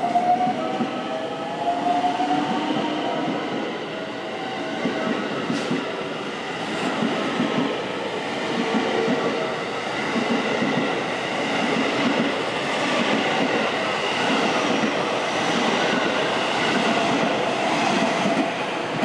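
Electric commuter train moving along a station platform: the motor whine rises in pitch over the first few seconds as it gathers speed, over a steady rumble of wheels and clattering rail joints as the cars go by.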